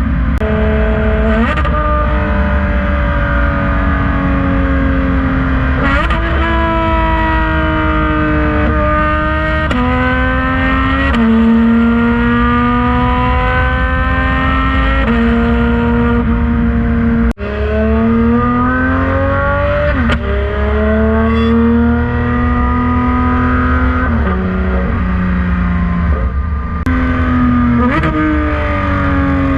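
Porsche 991.2 GT3 RS naturally aspirated flat-six, running through headers and a Valvetronic Designs exhaust, pulling hard with the engine pitch climbing and then dropping at quick repeated gear changes. Sharp cracks come at several of the shifts.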